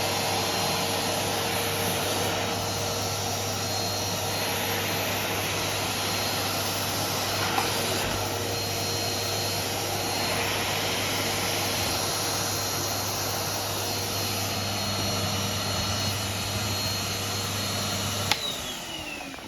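Vacuum cleaner running steadily with a rushing noise and a constant motor hum. Near the end it is switched off with a click, and the motor's whine falls in pitch as it winds down.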